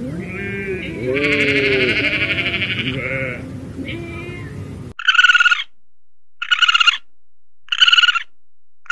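A flock of sheep bleating, many calls overlapping. About five seconds in the sound cuts to short, buzzy chirping calls, four of them about a second and a half apart.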